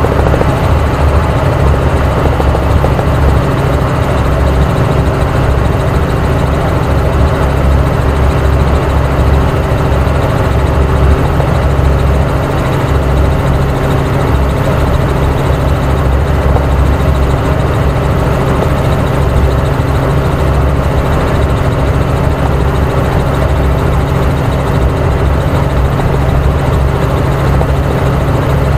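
Helicopter in flight, its rotor and turbine engine running at a steady, loud, unbroken drone, as heard from inside the cabin.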